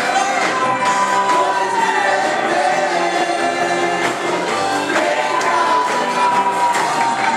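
Gospel worship music: voices singing a praise song together over instrumental accompaniment, with long held notes, one gliding down about two seconds in.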